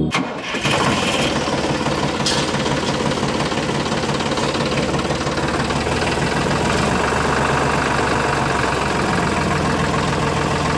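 Small electric motor of a homemade model tractor flour mill running steadily with a fast rattling buzz, and one brief click about two seconds in.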